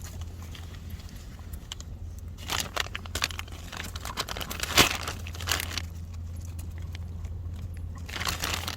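Plastic bread bag crinkling and rustling as it is handled and torn open, in irregular bursts of sharp crackles, the busiest stretch in the middle and another flurry near the end.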